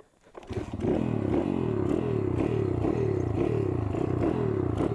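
DHZ Outlaw 140cc pit bike engine with an aftermarket exhaust starting. It catches about half a second in, then runs loudly with its pitch rising and falling about twice a second as it is revved in blips.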